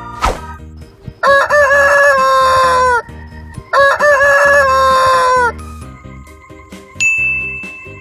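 A rooster crowing twice, each cock-a-doodle-doo about two seconds long: a few short notes, then a long held note that droops at the end. A bright ding rings out near the end over faint background music.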